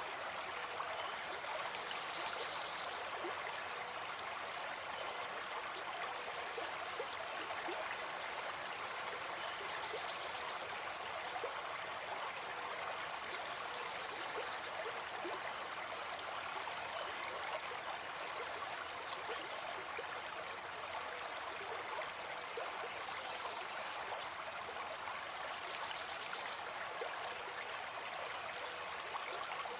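Gentle forest stream flowing, a steady, unbroken babble of running water.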